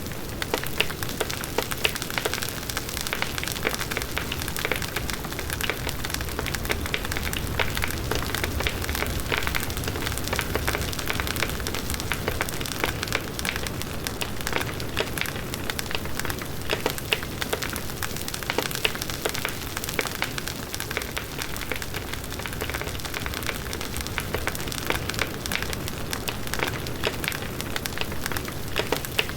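Large wood bonfire burning steadily: a continuous rush of flames with dense, constant crackling and popping of the burning wood.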